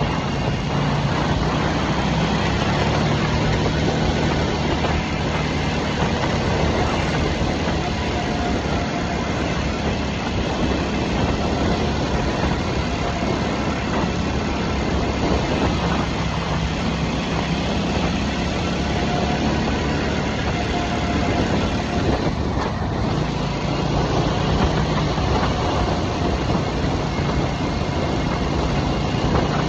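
2023 Harley-Davidson Nightster's Revolution Max 975 V-twin running steadily at a constant pace, with no revving or shifts.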